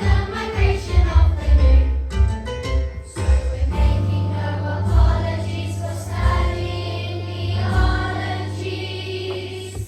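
Children's choir singing a song with a backing track that has a strong low beat; around the middle the beat drops out briefly, then comes back steadier under held notes.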